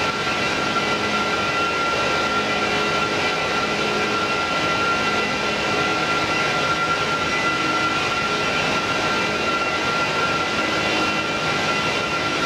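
Airbus A330-300 jet engines running steadily: an even rushing noise with a steady high-pitched whine.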